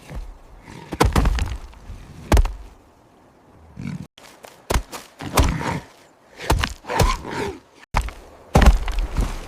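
Repeated grunts mixed with heavy thuds, coming in short loud bursts with brief pauses between them.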